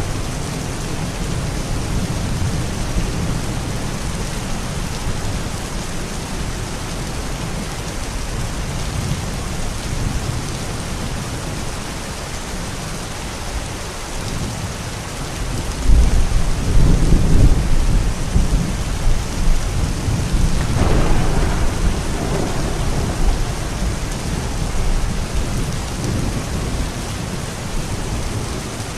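Steady rain falling, with a roll of thunder about halfway through. The thunder rumbles up suddenly as the loudest sound and dies away over several seconds.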